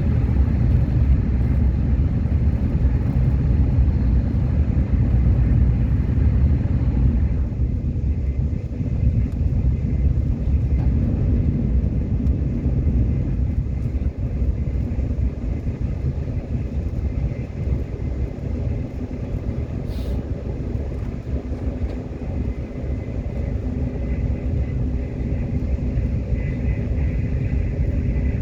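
Subway train running along the track: a steady low rumble, with the higher-pitched noise dropping off about seven seconds in and a single short click about twenty seconds in.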